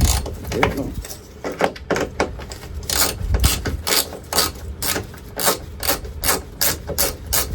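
Hand ratchet wrench clicking in short back-and-forth strokes, about three a second in the second half, as a bolt is wound out inside a truck door, with a knock at the start.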